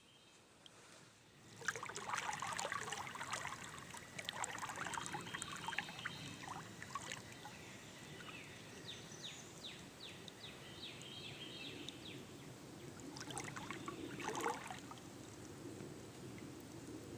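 Kayak paddle strokes splashing and dripping water beside the boat. The water starts suddenly about two seconds in, with a second louder splash burst near the end.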